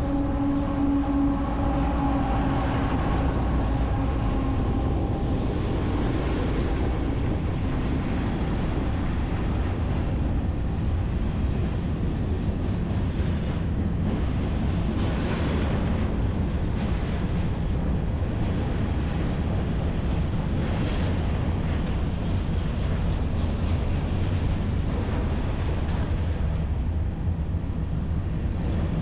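BNSF freight train passing close by, a steady rumble of wheels on rail. A pitched horn note trails off over the first few seconds, and a thin high squeal rises over the rumble midway.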